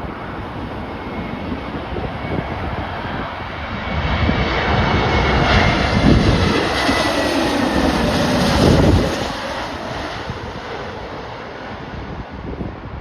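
Jet airliner on final approach passing close by: the engine noise swells from about four seconds in, peaks, and fades after about ten seconds, its whine falling in pitch as it goes past.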